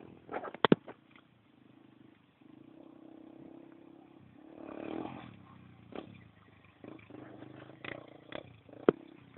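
Motocross motorcycle engine running with a steady low hum that swells briefly midway. Sharp knocks are heard just under a second in and again near the end.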